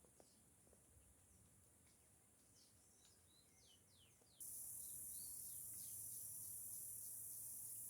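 Faint, scattered bird chirps, then a little over halfway a loud, steady, high-pitched insect drone starts abruptly and covers them.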